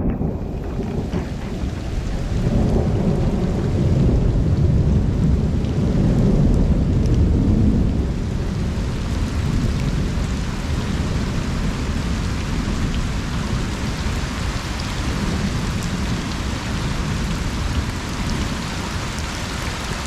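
Steady rain falling on a pond during a thunderstorm, with a long low rumble of thunder that swells about two seconds in and eases off after about eight seconds.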